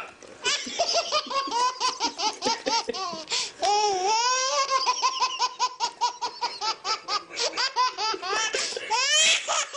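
A baby laughing in a long run of quick, high-pitched bursts, one close after another.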